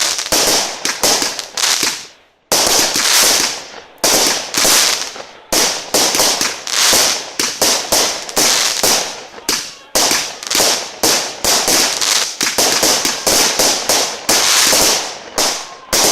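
Fireworks going off in a rapid, dense run of bangs and bursts, several a second, with brief lulls along the way.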